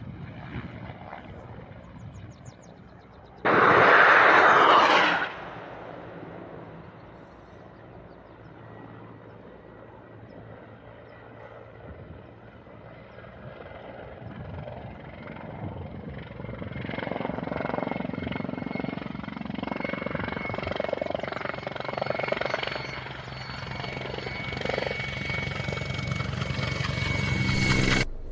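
Military helicopter running, its turbine whine and rotor hum growing louder over the last ten seconds. A sudden loud rushing burst lasts about two seconds near the start.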